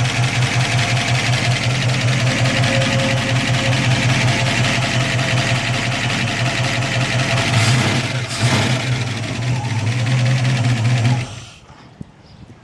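The 1964 Ford Falcon's V8, bored 30 over with a 600 Holley carburettor and solid lifters, idling with a steady pulse through a Flowmaster muffler. It swells briefly twice about eight seconds in, and the sound drops away sharply about eleven seconds in.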